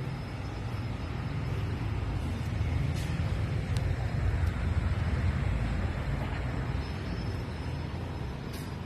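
Street traffic: a low rumble of a vehicle that swells as it passes through the middle and fades again, with two sharp clicks about three seconds in.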